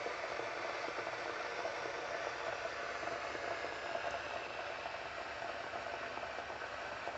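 Water heating at the boil in an ecosa 1.7-litre 2200-watt glass electric kettle: a steady, even hiss of bubbling.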